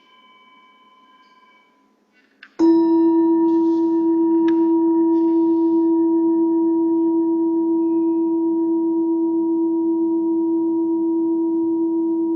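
A singing bowl rings out and fades away. After a couple of soft clicks, a steady healing-frequency tone starts suddenly and holds unchanged: one low note with fainter overtones above it.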